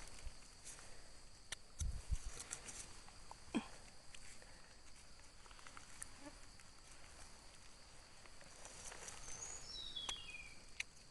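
Steady high-pitched insect drone, with scattered clicks and rustles of footsteps on forest litter and a short bird call of falling notes about ten seconds in.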